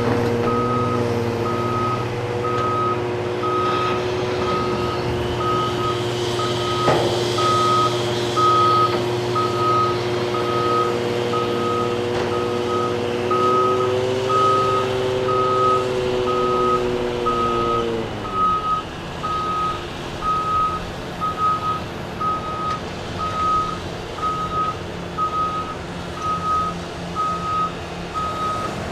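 Heavy-equipment backup alarm beeping steadily, about one and a half beeps a second, over a large diesel engine running steadily. The engine's revs drop about 18 seconds in. A single sharp clank comes about 7 seconds in.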